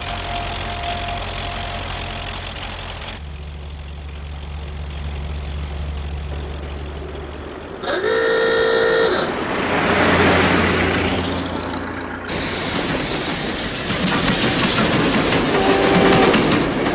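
Train sounds: a steady low rumble, then a loud train whistle blast about eight seconds in, followed by a rushing noise as the train runs, with a second, shorter whistle near the end.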